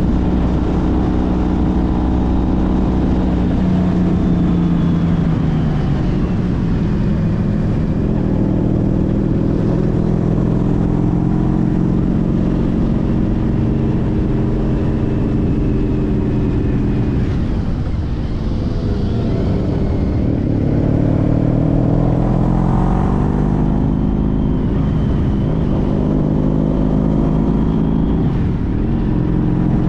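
Honda CTX1300's V4 engine running while riding, with wind noise. Its pitch falls about a fifth of the way in, drops lowest a little past halfway, then rises again as the bike accelerates.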